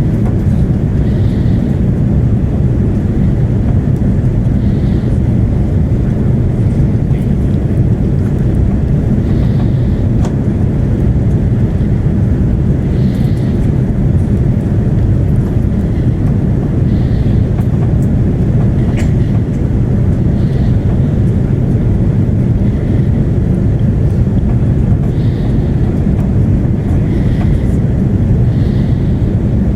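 Airbus A330-300 cabin noise on descent for landing: a loud, steady, low roar of engines and airflow through the fuselage, with a couple of faint clicks.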